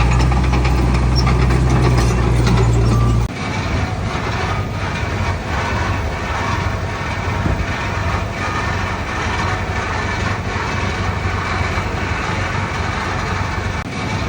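Heavy diesel construction machinery running. A deep, loud engine drone drops away abruptly about three seconds in, leaving a lighter steady engine sound with faint, irregular knocks.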